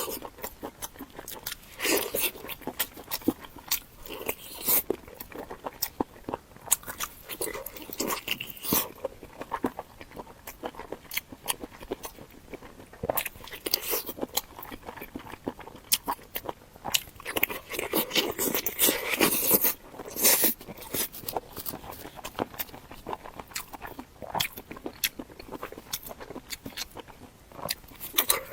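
Close-miked biting and chewing of a big pig's ear: a dense run of sharp, crunchy clicks, coming in louder clusters of chewing now and then.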